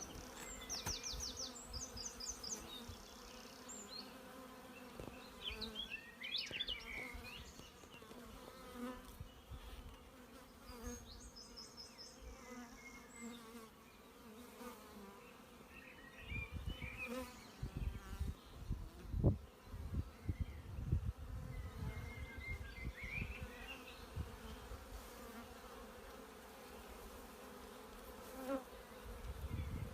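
A colony of bees buzzing steadily around their hive, a low even hum. Brief high chirps come about a second in and again about eleven seconds in, and low rumbling bumps in the middle.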